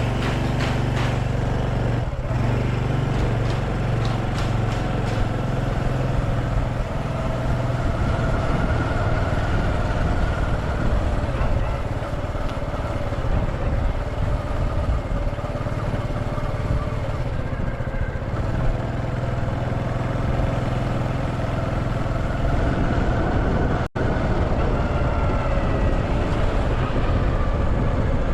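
Motorcycle engine running under way, its pitch drifting slowly up and down with road speed. The sound cuts out for an instant near the end.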